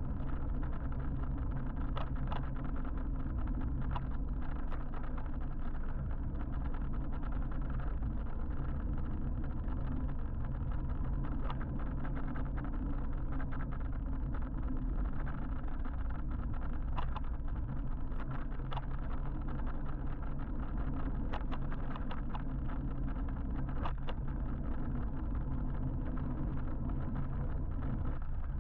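Steady low rumble of wind and road noise while riding an electric motorbike through city traffic, with a few brief clicks scattered through it.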